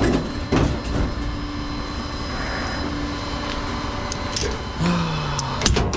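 Tow truck on the move, heard from inside the cab: a steady engine drone over road noise, with a few sharp knocks and rattles. About five seconds in the engine note drops.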